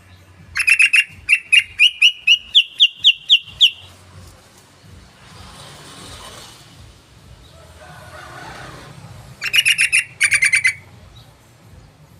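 Yellow-vented bulbul (trucukan) song: a run of sharp, chirping notes that climb in pitch and quicken, then a second short burst of rapid notes near the end.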